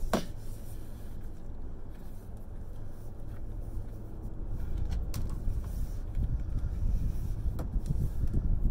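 Steady low rumble of a vehicle engine running, with a few sharp clicks from handling scrap wire.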